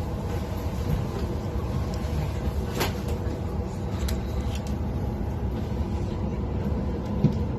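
Inside a passenger train carriage: a steady low rumble and hum of the train, with a short sharp click about three seconds in and a fainter one a second later.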